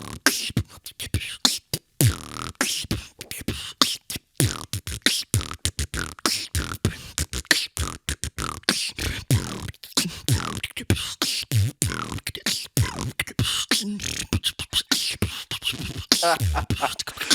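Human beatboxing: a fast run of mouth-made kick drums, snares and hi-hat clicks in a steady rhythm, with wavering pitched vocal effects near the end.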